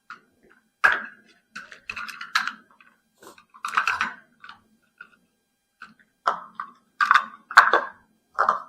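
Peanut butter being scooped and scraped into a measuring cup with a utensil: a string of short, irregular scrapes and clinks.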